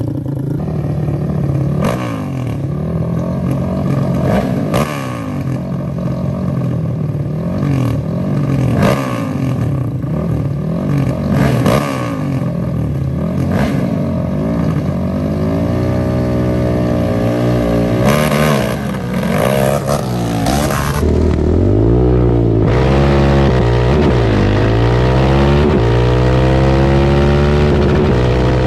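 Sport ATV engines running and revving loudly, their pitch repeatedly climbing and dropping; in the second half several engines overlap, each rising and falling on its own.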